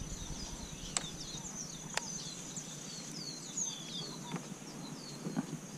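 Birds chirping in the background: many short, high, falling chirps over a steady high-pitched whine, with two sharp clicks about one and two seconds in.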